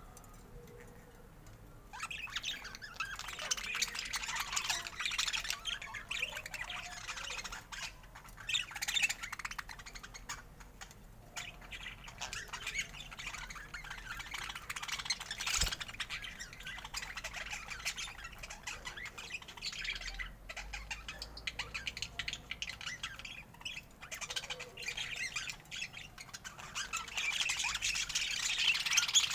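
Budgerigar chatter: a continuous run of quick chirps, squawks and warbling, quieter for the first couple of seconds and louder again near the end, with one sharp click about halfway through.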